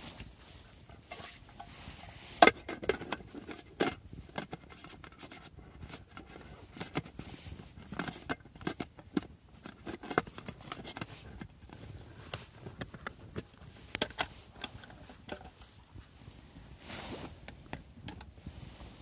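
Objects being handled by hand: irregular clicks, taps and light knocks with rustling between them. The sharpest knock comes about two and a half seconds in.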